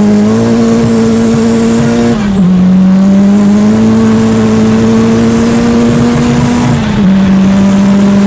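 Tuned VW Saveiro's four-cylinder AP engine pulling hard at high revs under full acceleration, heard from inside the cab with a steady rush of road and wind noise. The pitch drops sharply twice, about two seconds in and again near the end, as it shifts up a gear, then holds high again.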